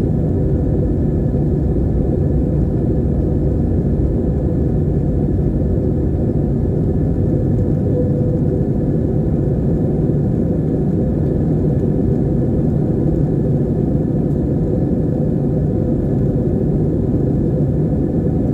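Steady low drone of an airplane in flight, heard from inside the cabin: engine and air noise that holds an even level throughout, with a faint steady hum in it.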